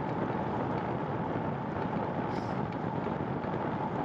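Steady rushing wind and road noise from a bicycle being ridden on a rainy day, with a faint steady tone running underneath.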